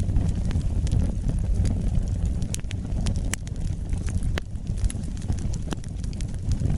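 Wood fire burning in a fireplace: a steady low rush of flames with irregular sharp crackles and pops throughout, a few of them louder.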